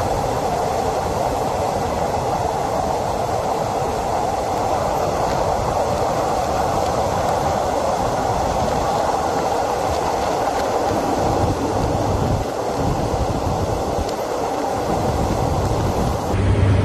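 Passenger train running steadily through a rail tunnel, heard from inside the carriage: a continuous, even noise of wheels on rails and rushing air. Near the end it gives way abruptly to a steady low hum.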